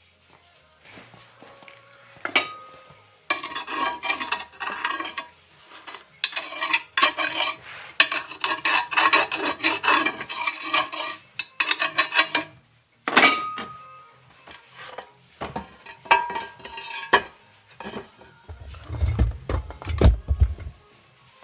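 Pieces of steel plate clanking and rattling as they are handled, with sharp ringing metal clinks and a few heavy dull thuds near the end.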